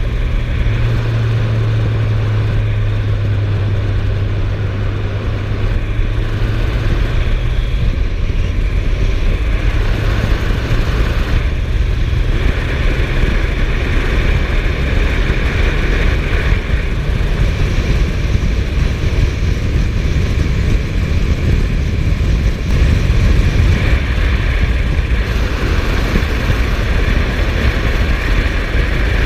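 Suzuki GSF1250S Bandit's inline-four engine running steadily while riding, over a constant rush of wind and road noise. The engine's steady hum is strongest for the first several seconds, then sinks into the rumble.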